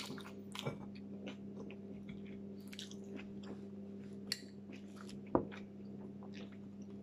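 Close-up chewing and crunching of food, with many small crisp mouth clicks and two louder sharp clicks a little after four and five seconds in, over a steady low hum.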